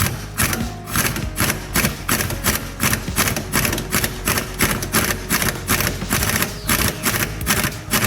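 Impact driver hammering on a rusted 12 mm sway bar bracket bolt to break it loose, a rattling run of impacts pulsing about three times a second. Background music plays underneath.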